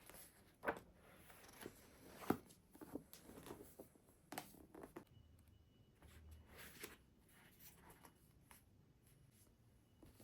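Faint handling sounds: a scatter of soft taps, clicks and brushing rustles, with one sharper tap a little over two seconds in.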